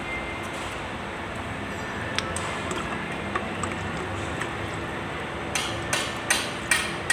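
Scattered light metallic clinks of tools on metal, then four sharp knocks in quick succession near the end, like hammer blows, over a steady background hum.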